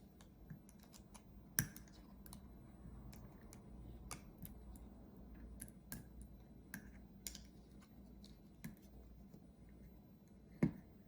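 Irregular light clicks and taps of small tools on the plastic casing of a portable hard drive being pried open, with a sharper click about one and a half seconds in and another near the end.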